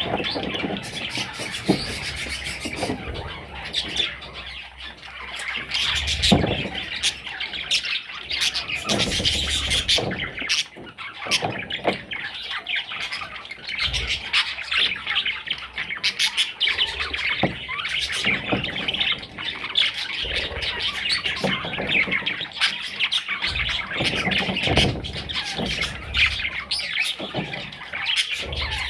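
Baby budgerigars chirping and squawking continuously, many overlapping high calls, with a few low thumps now and then.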